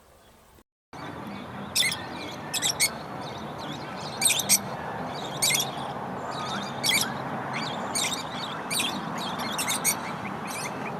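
Small birds chirping: short, high chirps repeated every second or so, some in quick twos and threes, over a steady background hiss. The sound starts about a second in, after a short dead gap where one recording is spliced to the next.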